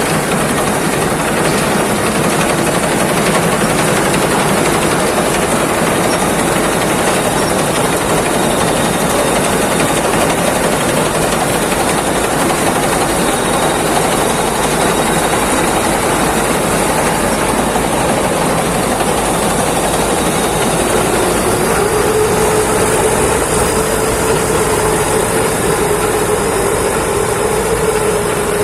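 Thai Seng Kaset rice combine harvester running steadily, a loud continuous engine and machinery drone. About three-quarters of the way through, a steady whine rises out of the noise and holds.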